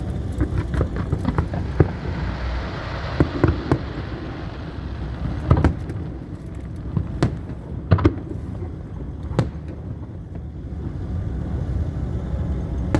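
Aerial fireworks bursting: a series of sharp bangs at uneven intervals over a continuous low rumble, with a hissing, crackling spell a few seconds in.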